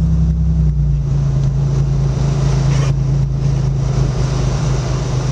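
Vehicle engine running steadily with a low hum, its pitch stepping down slightly about a second in.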